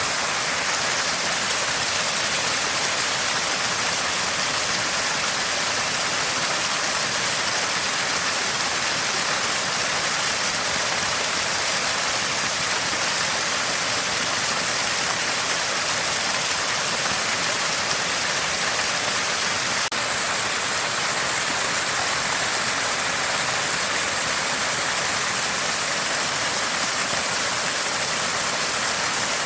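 Water gushing from a small spring and splashing in a steady, unbroken rush.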